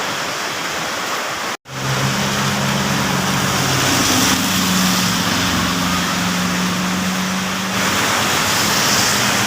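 Heavy rain hissing steadily, broken by a sudden cut to silence about one and a half seconds in. After the break a motor vehicle's engine hums steadily under the rain for several seconds.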